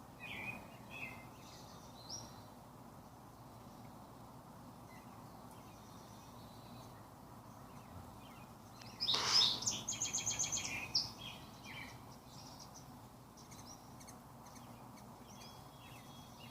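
Wild birds chirping off and on over a steady low background hiss, with a louder rapid chattering call about nine seconds in that lasts a couple of seconds.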